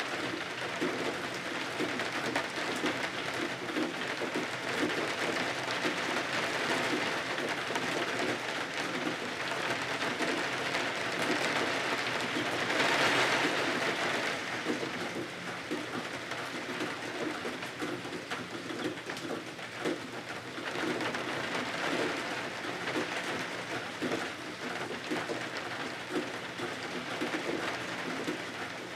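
Steady rain falling outside a window, an even hiss that swells briefly about halfway through.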